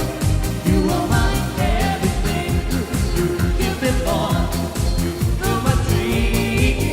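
A band playing an upbeat pop song, with a steady driving beat and a singing voice.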